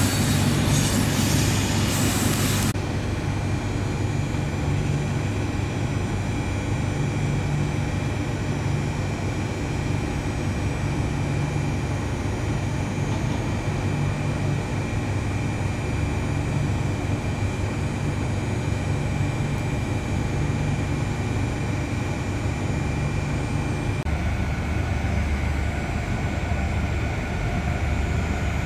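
A train standing at a station platform with its onboard machinery running: a steady low hum that swells and fades every couple of seconds, with a faint high whine over it. A louder hiss cuts off abruptly about three seconds in, and the hum shifts near the end.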